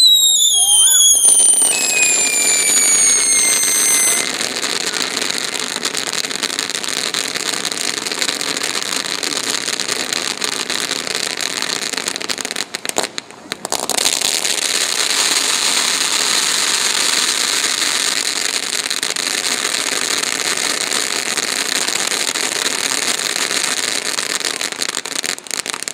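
A high-output 500-gram firework fountain (Catcalls) going off. It opens with several falling whistles over the first few seconds, then gives a steady loud hissing spray, broken briefly about halfway through.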